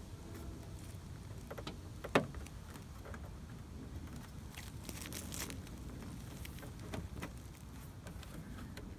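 Scattered clicks and light rattling of plastic car trim parts being handled, with one sharper click about two seconds in and a crackly patch of ticks near the middle, over a low steady rumble.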